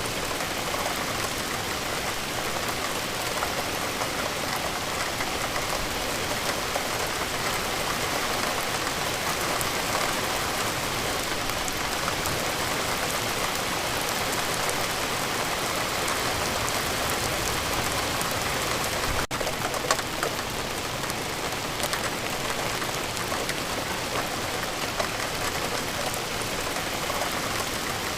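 Steady rainfall: a continuous even hiss with scattered drop ticks, with one momentary break about two-thirds of the way through.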